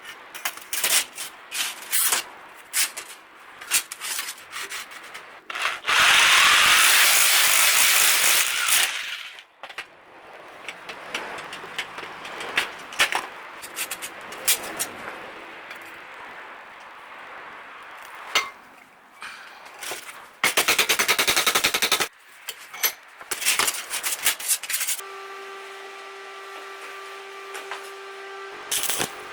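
Metalworking: many sharp clanks and knocks of steel pieces being handled and struck, with two loud bursts of harsh crackling noise, one about six seconds in lasting some three seconds and a shorter one later. Near the end a steady machine hum with several pitches.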